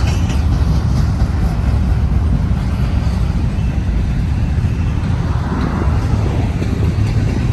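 BNSF intermodal freight train passing close by, a loud steady low rumble.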